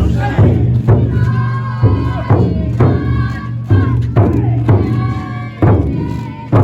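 Large taiko drum of a futon daiko float struck in a steady beat, about two strokes a second, each deep boom ringing on into the next, with a crowd of bearers chanting over it.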